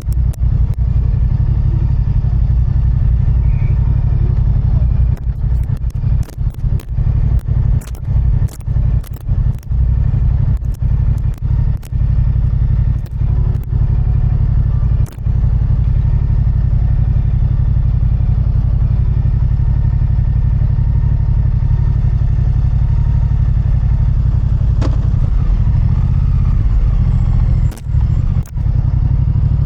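Motorcycle riding, heard from a microphone on the bike: a steady low rumble, with a run of sharp clicks and knocks in the first half and a couple more near the end.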